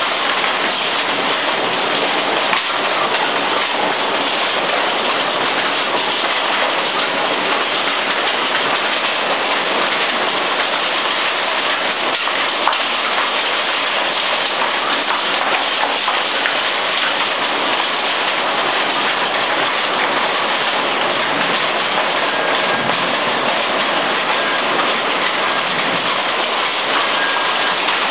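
Heavy rain pouring down steadily in a violent storm, a dense even wash of sound with no let-up.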